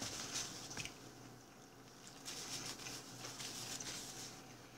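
A person chewing a mouthful of fried chicken with the mouth closed: faint, soft chewing and mouth sounds, with a few small clicks in the first second.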